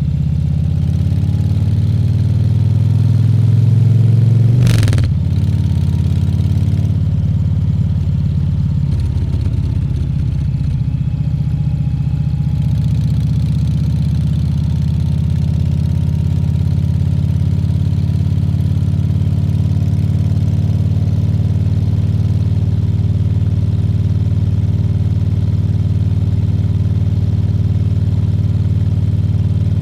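Harley-Davidson Fat Bob 114's Milwaukee-Eight 114 V-twin engine under way, building for the first few seconds. A short sharp knock comes about five seconds in, the engine note drops back, and it then settles into a steady cruise.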